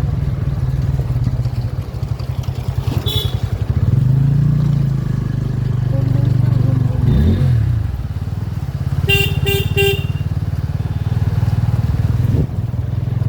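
Motorcycle engine running steadily under way, its pitch sliding briefly about seven seconds in. Near the end a horn gives three short honks.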